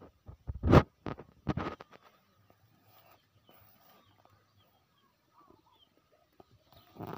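A few sharp knocks in the first two seconds, then quiet with faint bird chirps.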